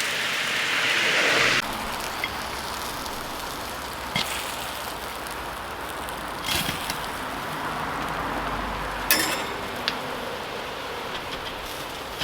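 Skewered chicken wings sizzling over a charcoal grill: a steady hiss, louder for the first second and a half, with a few short clicks and pops through it.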